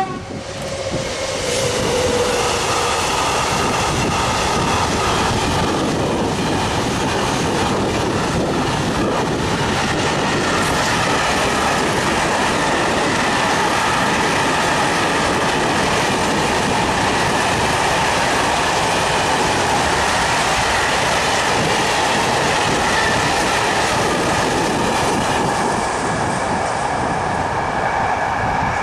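Long freight train of open box wagons, hoppers and tank wagons rolling past: a steady rumble and clickety-clack of wheels on the rails, with thin high steady tones over it. A short falling tone comes about a second in.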